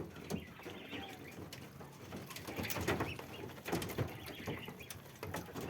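Week-old Muscovy ducklings peeping softly among themselves, with scattered light taps and scuffles from their feet and beaks.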